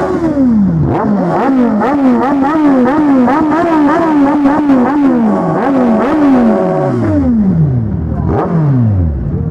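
Motorcycle engine revved repeatedly in quick throttle blips, about two a second, then held high for about a second and a half before dropping back, with one more blip near the end.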